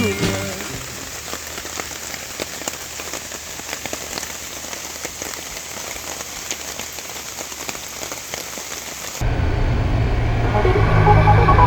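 Rain falling steadily, a dense patter of small drop ticks. About nine seconds in it cuts off abruptly, and a louder steady low drone takes over.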